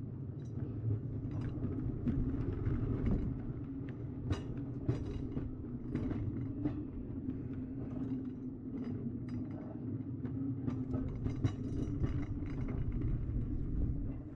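Railroad hand car rolling on steel rails as it is pumped along: a steady rumble from the wheels with irregular clicks and clanks.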